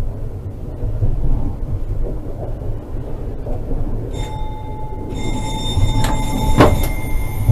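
Low, steady rumble of vehicle and road noise. About four seconds in, a steady high tone joins it, growing fuller a second later, and there are two short knocks near the end.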